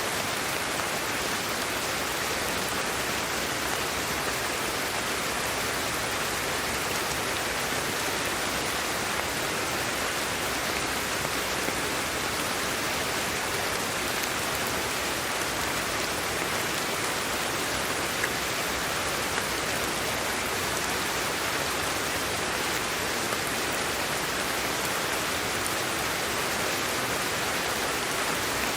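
Steady sleep white noise: an even, unchanging hiss, strongest in the upper-middle range, with a few faint ticks.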